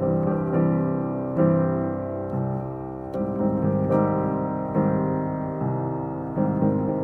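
Slow, calm background piano music, sustained chords struck about once a second.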